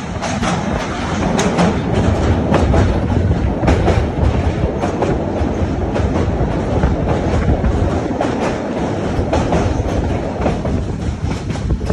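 Passenger train running at speed, heard from inside a carriage: a steady rumble of wheels on the rails with many irregular clicks and clatters from the rail joints.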